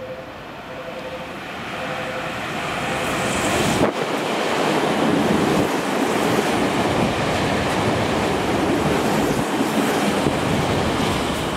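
Tokyu 5000 series electric train approaching and then running past close by: a wide rush of wheel and car-body noise that grows over the first few seconds and stays loud and steady. A repeating two-note tone sounds under the approach during the first few seconds.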